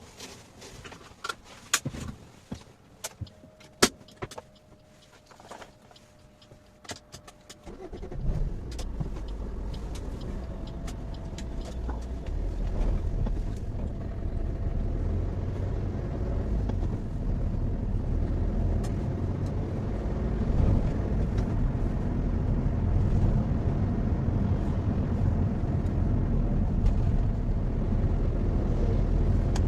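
Maruti Suzuki Swift: sharp clicks and small knocks for about eight seconds, with a faint steady tone in the middle of them, then the engine starts and runs as the car drives off, its low rumble and road noise slowly growing louder.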